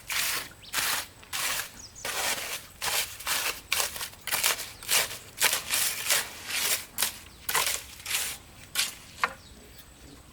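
Hand tool scraping the ground in repeated strokes, about two a second.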